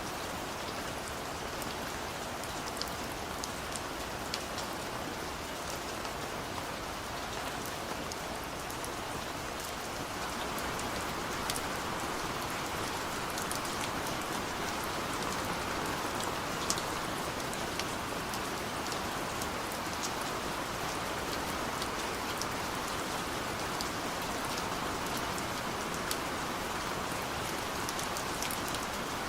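Steady rain falling, with many scattered sharp drop ticks. It grows a little heavier about ten seconds in.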